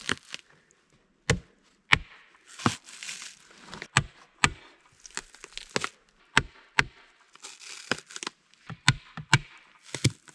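Wood being chopped with a blade: about a dozen sharp strikes at an uneven pace, roughly one a second, with crackling and tearing of wood between them.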